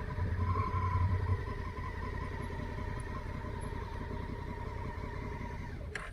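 Honda Africa Twin's parallel-twin engine running at low speed, dropping to a steady idle about a second and a half in, then switched off near the end.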